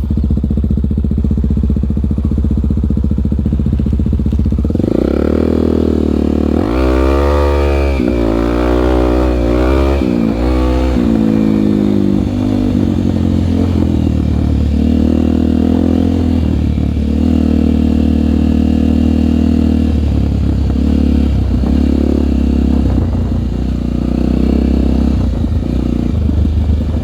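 Honda single-cylinder trail motorcycle engine running steadily at low revs. About five seconds in it accelerates, the engine note climbing and dropping several times, then settles to a steady cruising note with small changes in throttle.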